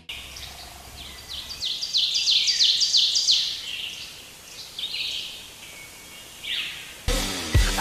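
A songbird singing: a quick run of short, high, down-slurred notes, followed by a few scattered calls. Music comes in near the end.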